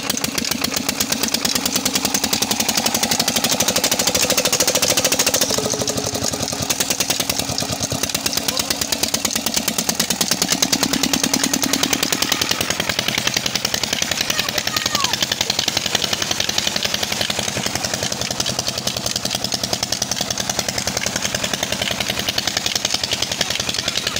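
Old stationary tube well engine running steadily after starting, with a fast, even chugging beat of firing strokes.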